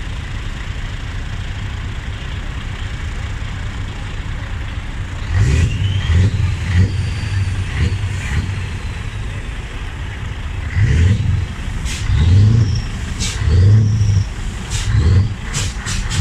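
Truck engine running steadily at idle, then revved in repeated short bursts from about five seconds in.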